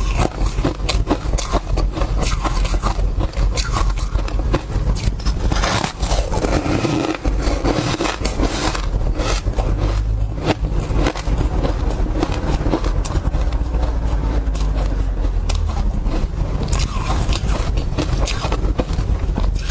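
Close-miked biting and chewing of refrozen tartary buckwheat tea ice, a dense run of crunches and cracks over a deep chewing rumble.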